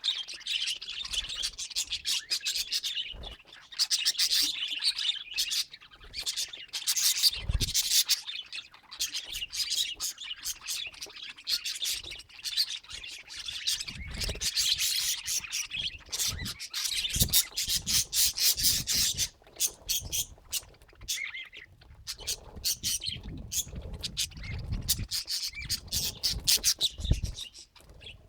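Budgerigars chattering and chirping in fast, overlapping high warbles and squawks, with occasional low thuds in the second half.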